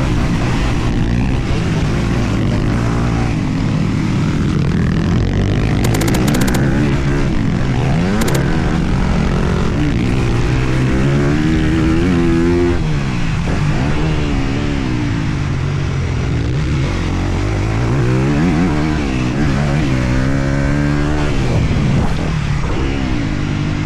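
Single-cylinder four-stroke motocross bike engine, a Honda CRF250R, heard up close from on board. It revs hard and drops back over and over, with repeated rising and falling pitch as the rider accelerates out of turns and off the throttle for jumps.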